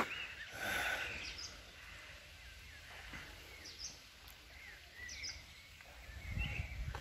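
Small birds chirping in short scattered calls among park trees, over a faint steady outdoor background, with a louder patch of sound about a second in.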